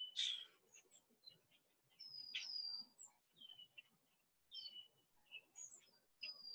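Birds chirping and singing faintly: short whistled notes, some held level and some dropping, repeating every second or so, with the loudest chirps right at the start and about two seconds in.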